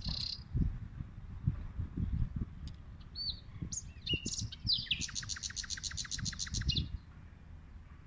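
Small birds chirping in desert trees: scattered short high chirps, then about five seconds in a rapid trill of roughly nine notes a second that lasts nearly two seconds. A low, uneven rumble runs underneath.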